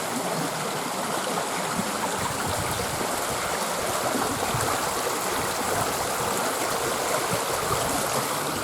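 Small stream flowing, a steady, even rush of water.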